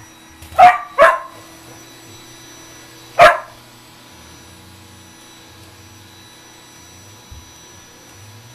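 Shetland sheepdog barking sharply three times: two quick barks about half a second in, then one more about three seconds in, over a faint steady hum.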